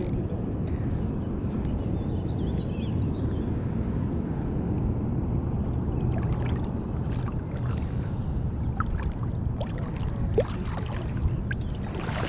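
Running river water at low tide: a steady, even rushing gurgle, with a few faint clicks near the end.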